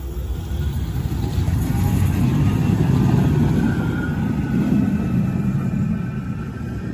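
Manchester Metrolink tram passing: a low rumble that builds to its loudest about halfway through and then fades, with a faint whine above it.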